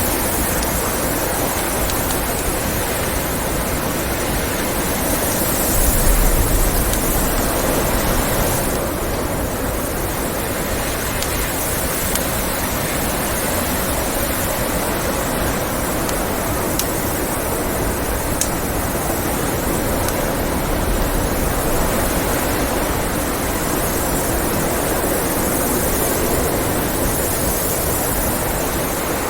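Blizzard wind blowing steadily, swelling in a gust about six seconds in, with a few faint pops of a crackling wood fire.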